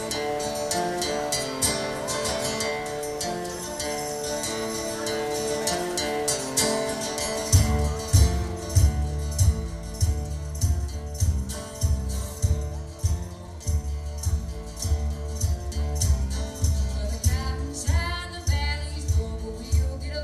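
Live folk-blues band playing an instrumental introduction: guitar with a jingling tambourine, joined a third of the way in by a steady low beat. A bending melody line comes in near the end.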